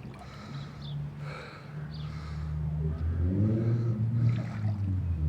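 A motor vehicle's engine running, a steady low hum that gets louder about halfway through while its pitch rises and then falls.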